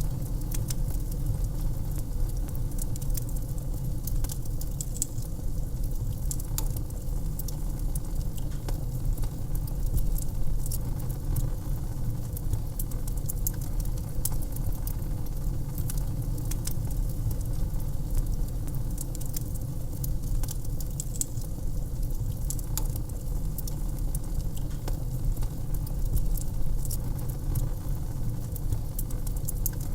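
Wood fire crackling in a fireplace: frequent small sharp pops and snaps scattered over a steady low rumble.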